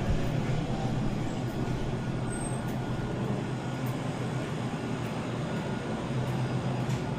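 A vehicle's engine running with a steady low drone over a constant rushing noise.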